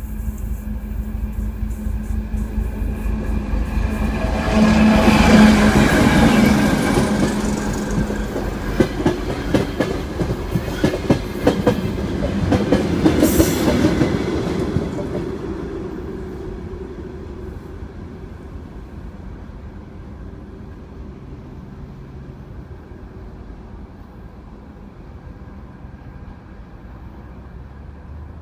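A train's wheels clattering over the rail joints as it passes. The sound swells to its loudest a few seconds in, with a dense run of knocks, then fades away steadily.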